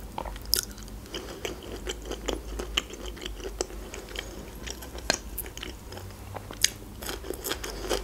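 A person chewing a mouthful of black olive: an irregular run of short mouth clicks and smacks.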